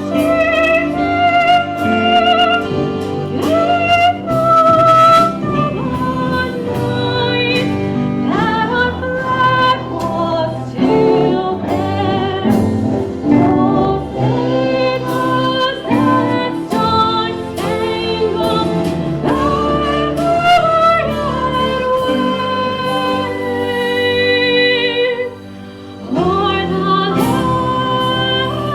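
Slow song sung with instrumental accompaniment: long held, wavering vocal notes over sustained chords, with a short break near the end.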